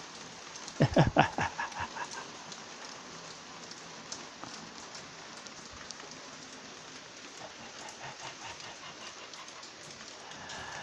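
Steady rain falling. About a second in, a short loud burst of rapid pitched pulses fades away over about a second.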